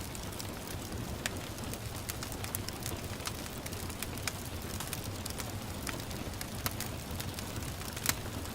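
Wood fire crackling in a fireplace, with sharp pops at irregular moments (the strongest near the end), over a steady hiss of gentle rain and a low rumble.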